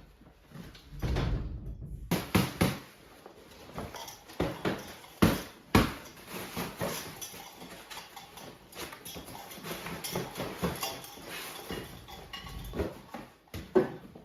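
Irregular knocks, taps and clatter of objects being handled, with a heavier thump about a second in and sharper knocks around two, five and six seconds in.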